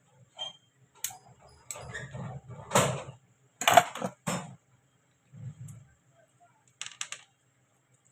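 Clicks, knocks and short rattles of small metal parts and hand tools being handled during angle grinder repair work, with no motor running. The loudest knocks come together midway through, and a quick run of three clicks comes near the end.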